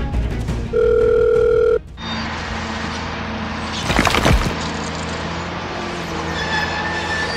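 Telephone calling tone: a steady beep lasting about a second, the second in a row. It is followed by a steady hum with a short, noisy scrape about four seconds in, and light music notes near the end.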